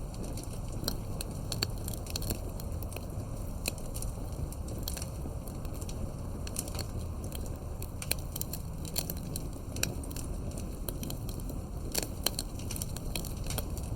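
Campfire burning, with irregular sharp crackles and pops from the wood over a steady low rumble of the flames.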